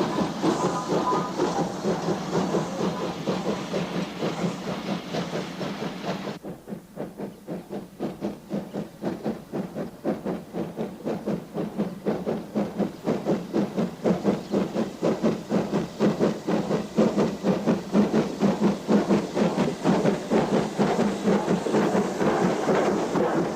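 SPS-class 4-4-0 steam locomotive working a train: a steady rhythm of exhaust beats with steam hiss. About six seconds in the hiss drops away, leaving the beats, which then grow louder.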